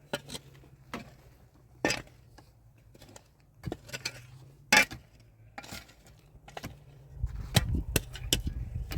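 Scattered sharp clicks and knocks of small objects being handled, irregular and unevenly loud, over a low steady hum; a low rumble builds near the end.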